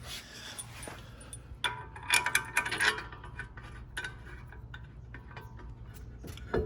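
Metal bolts and brake parts clinking and ticking as they are picked up and handled, with a burst of clinks about two seconds in and lighter ticks after.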